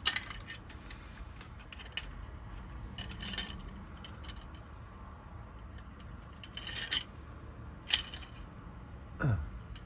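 Small metal lock wafers clicking and clinking as they are sorted through and handled one by one, in scattered sharp clicks with short rattles about three and seven seconds in. A short low sound falls in pitch near the end.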